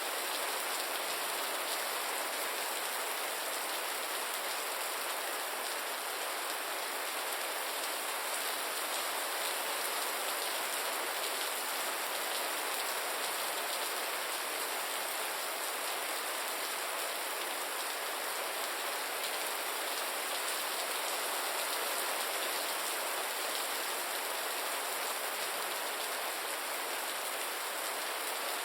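Steady rain falling, a dense even hiss of drops on a surface with fine patter throughout, no thunder or other sounds.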